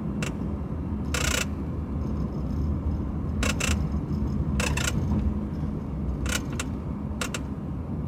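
Second-row left seat of a moving 2021 Toyota Sienna Platinum minivan making short, irregular clicks and creaks, some in pairs, over a steady low road rumble inside the cabin. This is the seat's abnormal noise, which the dealer traced to the seat's bottom section.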